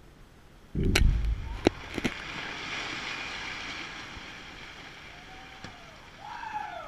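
ANFO rock blast: a sudden deep boom about a second in, then several sharp cracks over the next second, followed by a long hiss and rumble that slowly fades. Brief rising-and-falling tones sound near the end.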